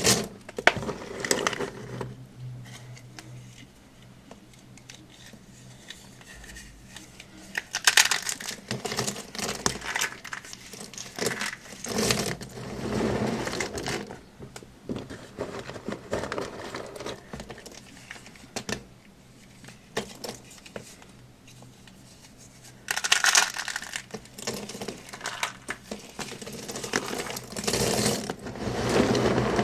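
Close-miked crunching and crackling of a dry, crumbly material squeezed and broken by hand, in irregular bursts with quieter pauses between.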